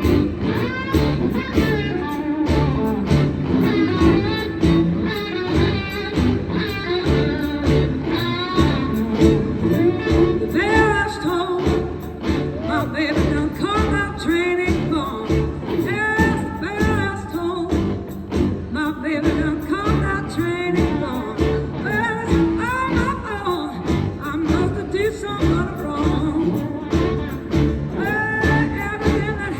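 Live electric blues band playing: electric guitar lead over bass and drums, the guitar notes bending and gliding.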